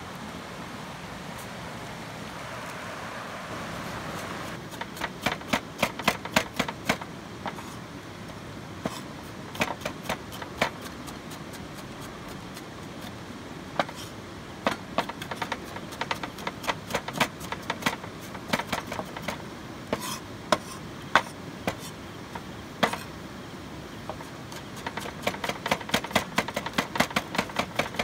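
Knife chopping on a cutting board in quick runs of sharp strokes, starting a few seconds in, over the steady rush of a stream.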